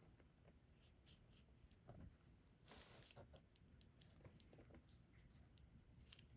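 Faint small clicks and taps of a diamond painting pen picking up resin drills and pressing them onto the sticky canvas.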